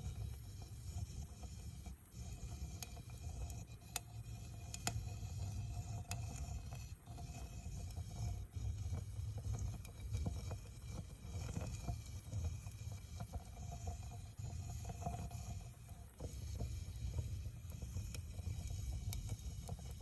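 Wood campfire burning: scattered sharp crackles and pops over a low, steady rushing sound.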